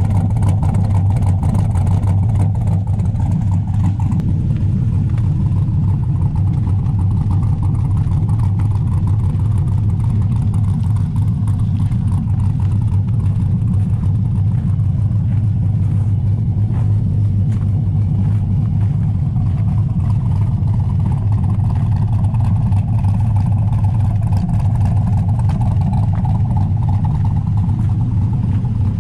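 Chevrolet 6.0-litre LS V8 with a Texas Speed Stage 3 cam idling steadily, with a choppy idle from the cam, warming up after a cold start.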